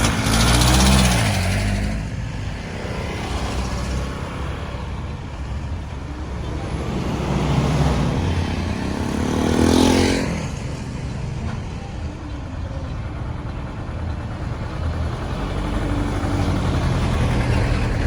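Busy road traffic: a steady rumble of engines and tyres, with two vehicles passing close, one right at the start and one about ten seconds in, each bringing a swell of engine sound.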